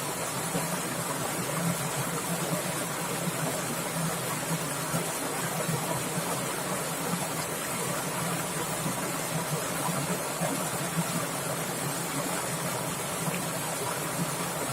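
Swift stream water splashing and babbling steadily, with small irregular splashes.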